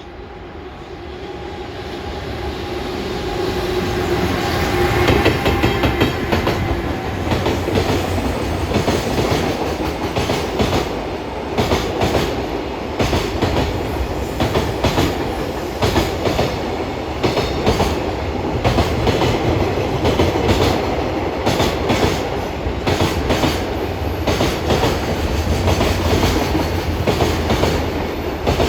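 JR Freight EF210 electric locomotive and its long train of Koki container wagons passing at speed, growing louder over the first few seconds as it arrives. Then the wagons' wheels clatter over the rail joints in a steady repeating rhythm of clicks.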